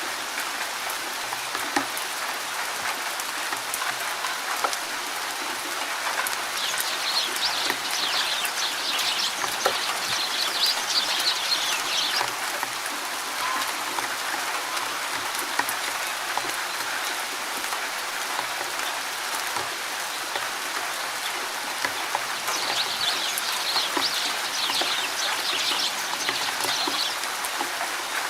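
Steady rain falling in a forest, with scattered sharp drips. A bird sings in two bouts of rapid high chirping, about a quarter of the way in and again near the end.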